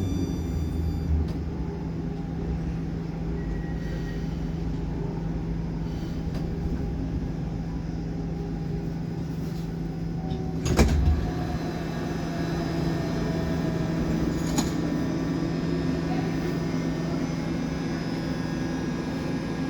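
Baltiets metro train standing at a platform with its doors open: a steady hum with a low tone from its running equipment, and a single sharp knock about eleven seconds in.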